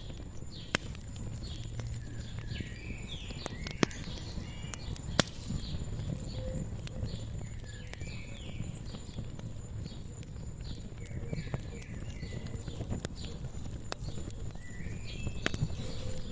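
Wood fire crackling, with sharp pops over a low steady rumble, the two loudest pops a second or so apart near the middle. Small birds chirp repeatedly in the background.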